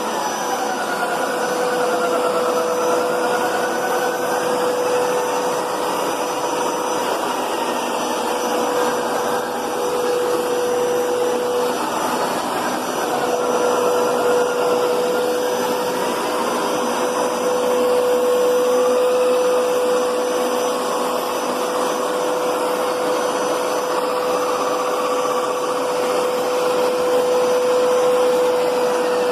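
Hoover Power Scrub Deluxe carpet cleaner running, a steady motor whine over rushing air, with a higher pitch that slowly wavers up and down.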